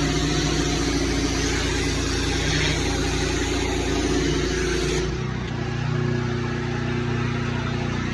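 A small petrol engine running steadily with a loud hiss on top. About five seconds in, the hiss drops away sharply and the engine note shifts.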